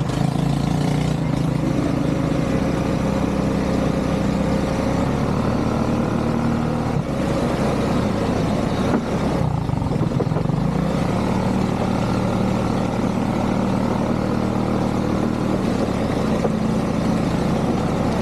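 ATV engine running while riding. The engine note dips and then climbs again about ten seconds in, as the throttle is eased and opened.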